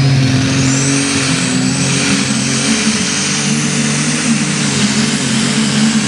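John Deere unlimited super stock pulling tractor's turbocharged Brett Long alcohol engine running hard under load, with a high turbo whistle that rises over the first second or so and then holds.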